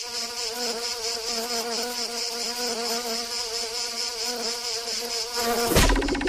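Cartoon insect buzz sound effect: a steady buzzing with a wavering, warbling pitch. Near the end a sudden loud thump cuts in and the buzz turns into a faster fluttering.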